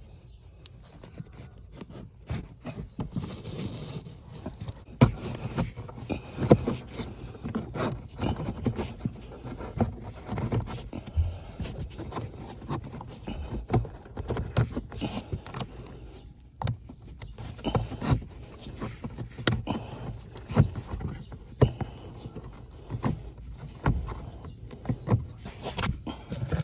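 Irregular knocks, clicks and scraping from hands working on the car's plastic cabin air filter housing and interior trim.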